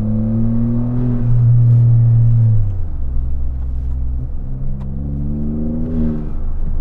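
Ford F-150 EcoBoost twin-turbo V6 engine accelerating under load. Its pitch climbs, drops sharply at an upshift about three seconds in, then climbs again and drops once more near the end.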